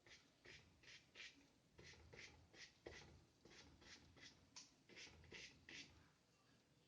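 Faint, quick strokes of a paintbrush with gouache on paper, about two or three short scratches a second, stopping about six seconds in.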